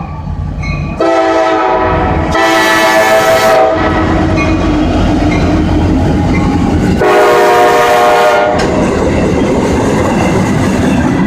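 Air horn of a CSX freight train's lead EMD diesel locomotive sounding long blasts, one about a second in and another at about seven seconds. Between and under them run the rumble and wheel clatter of the passing freight train.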